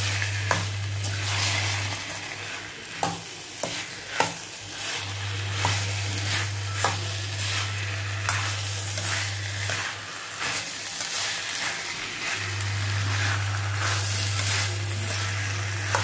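A steel spoon stirring boiled potato cubes through hot oil and masala in a stainless-steel kadai: a steady frying sizzle with frequent clinks and scrapes of the spoon on the pan. A low steady hum comes and goes.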